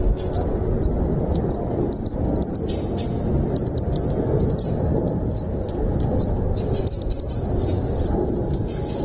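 Birds chirping in short, high calls over and over, over a loud, steady low rumbling noise.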